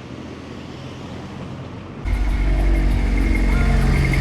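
City street noise with traffic, then about two seconds in a much louder, deep sound with several steady tones cuts in suddenly and stays loud.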